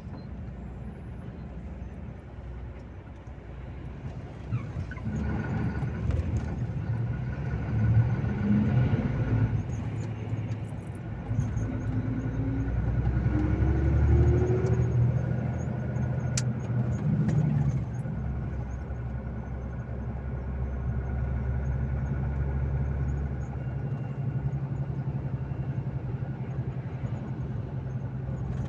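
Volvo FH 460 truck's 13-litre straight-six diesel running under way with road noise, its pitch rising for a few seconds near the middle as it picks up revs, then settling back to a steady drone.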